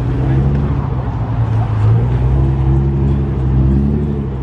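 A car engine running close by at a steady idle, a low, even note with no revving.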